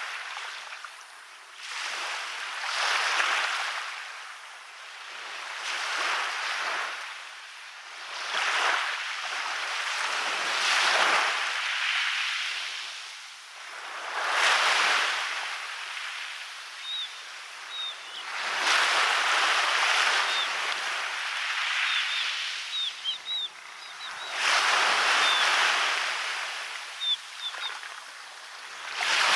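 Sea waves breaking and washing up a beach, each surge swelling and easing off every few seconds. Short, faint high chirps come now and then in the second half.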